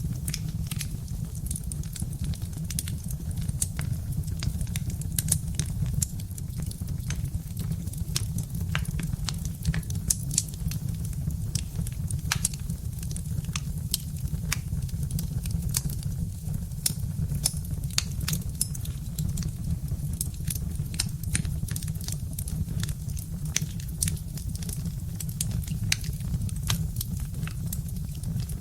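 Birch-log fire crackling in a fireplace: a steady stream of sharp pops and snaps over a constant low rumble.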